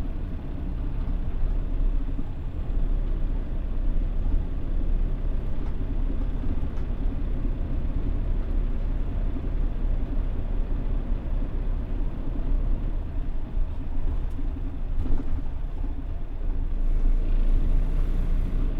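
Mitsubishi Fuso Aero Star city bus (PJ-MP35JM) under way, heard from inside the cabin: a steady low rumble of diesel engine and road noise, growing a little louder near the end.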